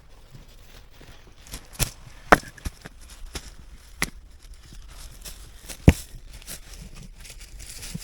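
A few irregular sharp knocks with crunching and rustling between them, the loudest a little past two seconds and near six seconds.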